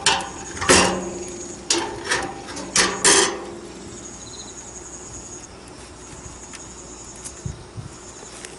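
Steel wood-burning stove: about six sharp knocks with a short metallic ring in the first three seconds, then oak logs burning with a faint, steady crackle.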